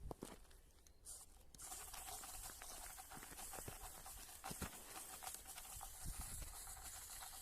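Small electric motor of a toy brick-built tractor starting up about a second and a half in and running steadily with a faint whine, with plastic parts clicking and knocking as it pulls.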